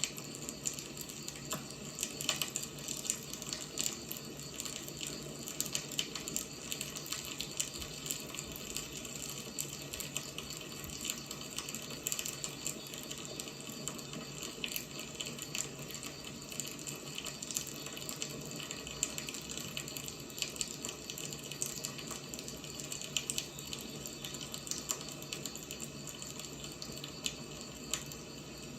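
Firewood burning: a steady hiss with frequent small, irregular crackles and pops.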